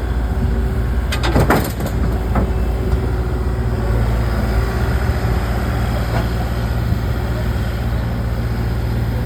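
Log splitter's gas engine running steadily, with a few sharp knocks and clatters of wood or metal about a second in.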